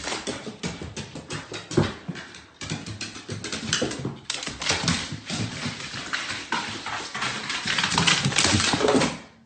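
A dog moving about with rapid, irregular clicking and scuffling, like claws on a hard floor.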